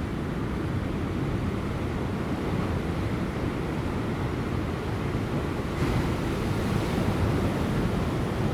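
Large ocean waves breaking on rocks, a steady wash of surf that swells louder and brighter about six seconds in as a wave breaks, with light wind.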